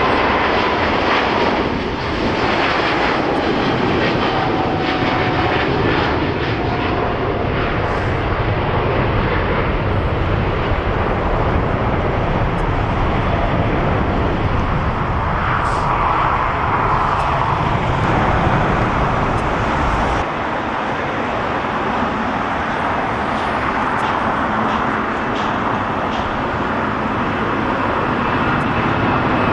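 Airliner jet engines running with a continuous loud roar as a plane passes, with a faint whine that falls in pitch over the first several seconds.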